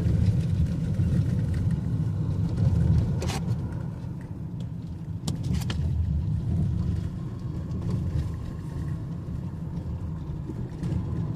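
Steady low rumble of a car driving, heard from inside the cabin, with a few brief sharp clicks partway through.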